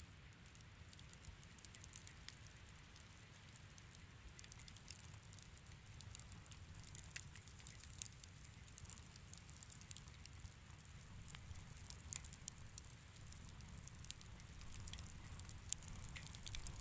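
Fire in a fireplace crackling faintly: scattered small pops and ticks over a low rumble, with one sharper pop near the end.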